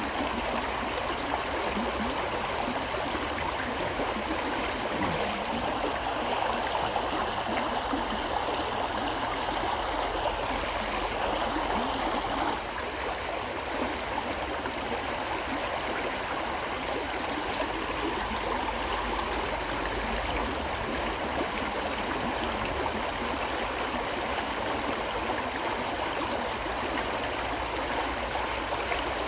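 A river flowing steadily, a continuous rush of water that eases slightly about twelve seconds in.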